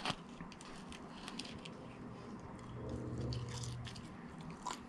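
Quiet chewing of fast food, with scattered small wet mouth clicks and a low hum for about a second around the middle.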